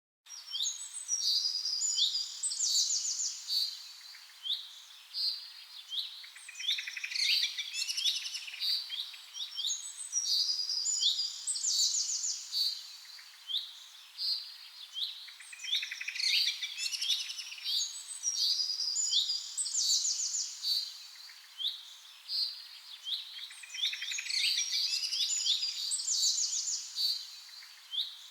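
Several small birds chirping and twittering in a busy chorus of quick high calls and trills. It starts abruptly, and the same pattern recurs about every eight seconds, like a looped birdsong track.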